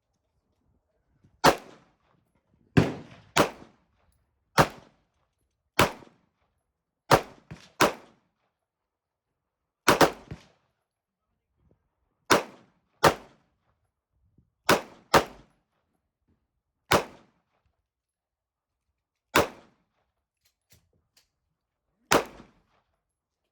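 Gunshots: about fifteen single shots fired one at a time at an irregular pace, each a sharp crack with a short ringing tail.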